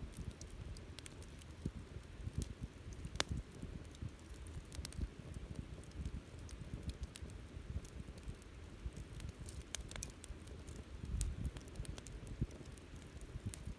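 Wood campfire crackling, with irregular sharp pops and snaps over a low rumble of the flames.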